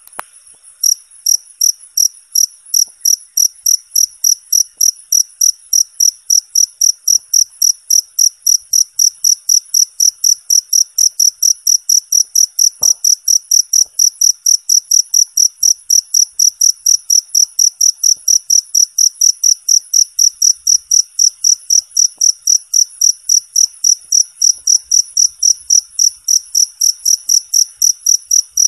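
Cricket chirping steadily in a fast, even rhythm of about four to five clear, high-pitched chirps a second, pausing briefly just after the start.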